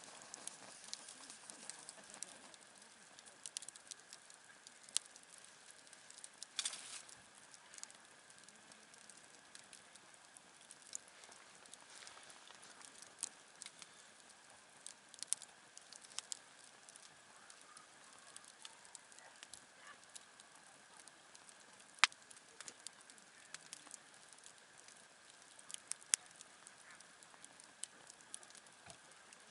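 Campfire crackling: scattered pops and snaps over a soft steady hiss, with one sharper pop about three-quarters of the way through.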